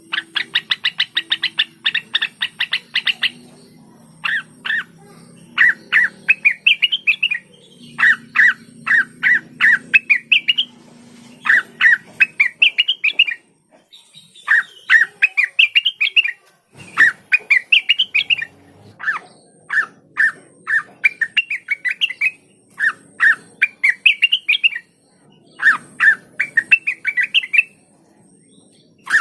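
Blue-winged leafbird (cucak wilis, or rengganis) singing: phrases of rapid chattering notes, many rising and hooked at the top, repeated with brief pauses between them. The first few seconds are a fast trill.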